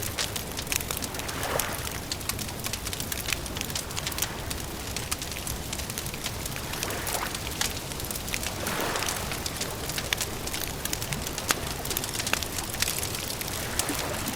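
Wood campfire crackling, with many sharp pops and snaps over a steady hiss. A few soft, brief swells rise out of it now and then.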